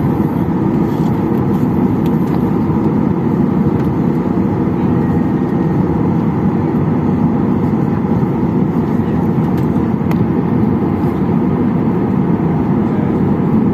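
Steady low rumble of a Boeing 737-800's CFM56 engines and airframe, heard from inside the passenger cabin while the jet taxis before takeoff.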